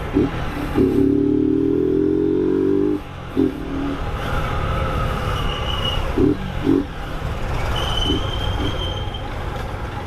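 Motorcycle engine accelerating, rising in pitch for about two seconds before dropping off as the rider shifts. It then runs on at a steady cruise.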